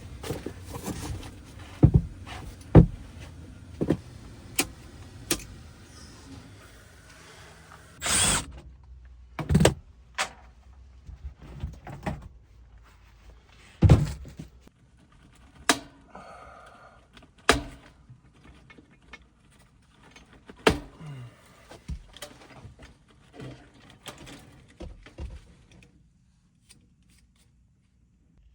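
Irregular clicks, knocks and thunks from hands and tools working on a furnace cabinet. A low steady hum runs under the first few seconds and stops about eight seconds in.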